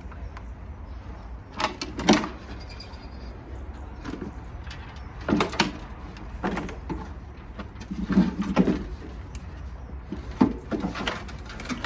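A series of irregular knocks and clunks, about seven over the stretch, from metal washing machine parts being handled and worked loose during drum removal, over a steady low hum.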